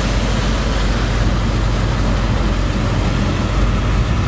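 The engine driving a sand boat's pump, running steadily with a constant low hum under a dense rushing noise.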